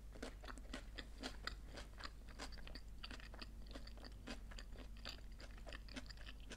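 A person quietly chewing crunchy tortilla chips (nachos): many short crunches and clicks, several a second.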